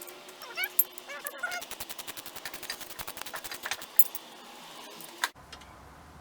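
Ratchet wrench clicking rapidly as a motor mount bracket bolt is turned, about ten clicks a second for a couple of seconds, with a few sharper metal knocks before and after.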